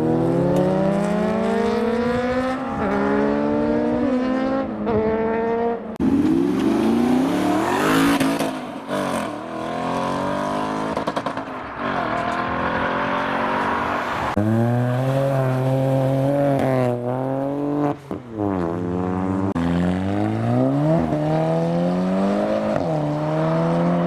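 Modified car engines pulling away one after another, each climbing in pitch through quick gear changes. Later an engine is held at steady revs with sharp throttle blips.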